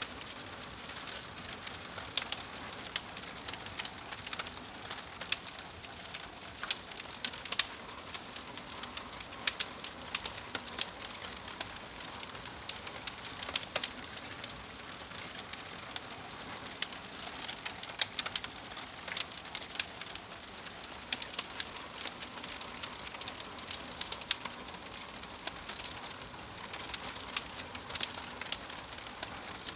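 Crackling fire: a steady hiss with sharp, irregular pops and snaps, several a second.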